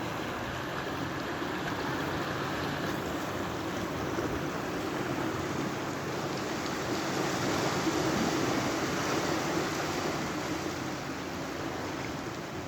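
Sea surf washing against the shore, a steady rush of waves that swells a little about two thirds of the way in.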